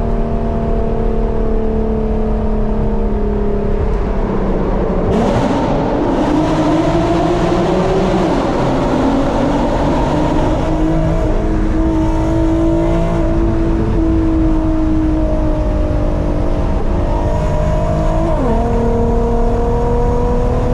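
Car engine running under load while driving, its pitch rising and falling, with sudden drops in pitch about four seconds in and again twice near the end, over steady road and wind hiss.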